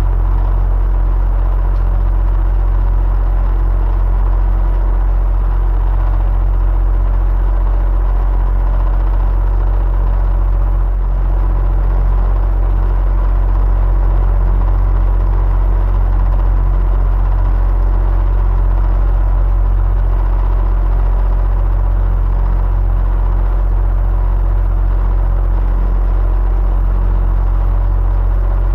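Electric fan running steadily: a constant low hum with a faint steady tone on top.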